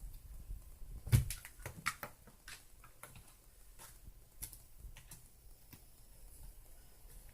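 Scattered clicks and knocks of a cat batting at a cat play-center toy. There is one louder thump about a second in, and only a few faint ticks in the second half.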